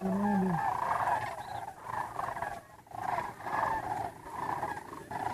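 An animal calling over and over in a series of short, arched, pitched calls that come in clusters with brief gaps.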